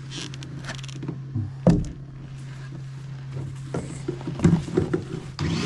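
A few sharp knocks and clunks, the loudest about two seconds in and several more close together near the end, over a steady low hum. Just before the end a louder, even rushing noise cuts in suddenly.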